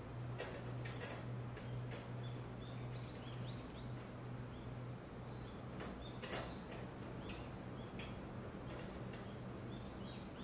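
Forest ambience: small birds giving short high chirps, with scattered sharp clicks and a steady low hum underneath.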